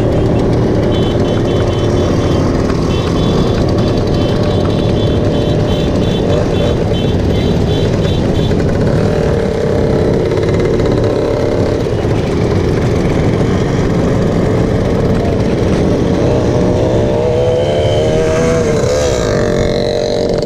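Motorcycle engines running steadily in a moving caravan, with an engine rising in pitch as it revs near the end.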